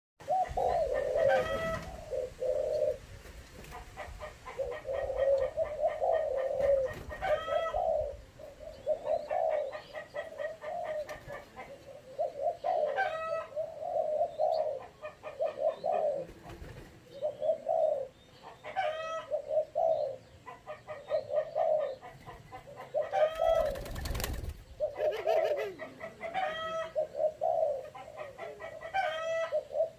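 Young spotted dove (derkuku), about 20 days old, calling continuously: short low cooing notes repeated over and over, with higher rising chirps every few seconds. A brief rustling thump about 24 seconds in.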